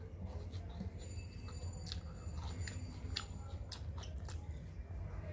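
Close-up chewing and wet mouth clicks of someone eating dal and rice by hand, with fingers squishing the rice. A steady low hum runs underneath.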